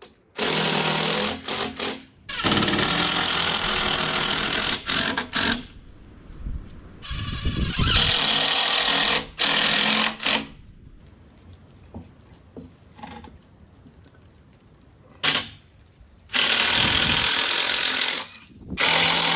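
Impact driver hammering screws into 2x4 lumber in several runs of one to three seconds each, with short pauses between and a longer pause in the middle.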